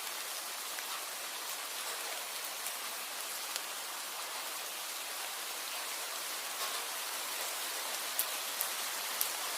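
Steady rain falling, an even hiss dotted with individual drops ticking, with a few sharper drips near the end.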